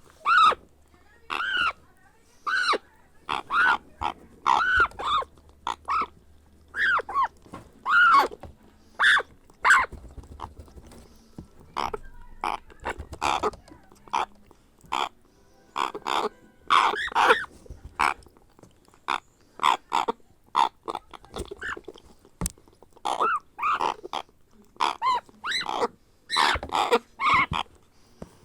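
African grey parrot chick making repeated short, grunting food-begging calls, about one a second, with fainter, sparser calls for a few seconds in the middle.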